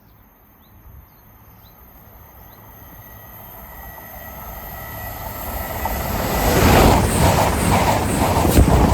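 CrossCountry passenger train approaching at speed, its rumble growing steadily louder over several seconds, then passing close by with a regular clatter of wheels over the rails from about seven seconds in.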